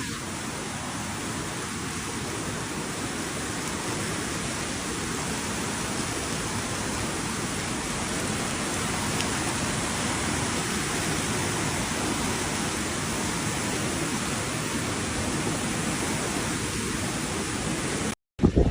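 Steady rushing hiss of pouring water, like a heavy downpour, that cuts off briefly near the end.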